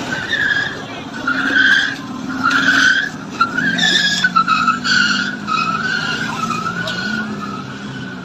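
Car tyres squealing in one long screech that wavers up and down in pitch without a break, with the car's engine running under it.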